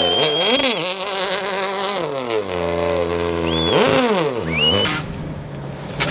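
Rally car engine revving hard, its pitch shooting up and dropping back twice, about three seconds apart, with a fall in revs in between as it lifts off.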